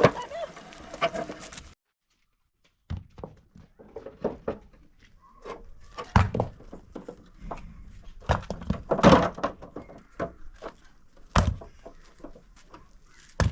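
Irregular knocks and thuds, some of them loud and sharp, like objects being handled, set down or struck. They follow a second of dead silence near the start.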